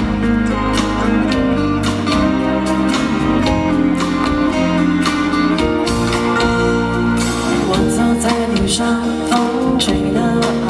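A live pop band plays an instrumental passage with a steady drum beat, guitar and held notes.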